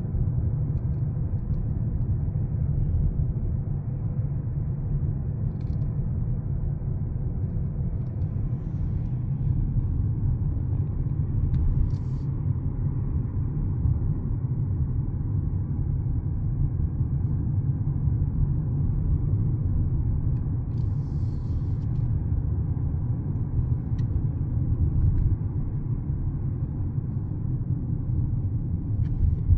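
Steady low rumble of a car's road and engine noise heard while driving, with only a few faint ticks over it.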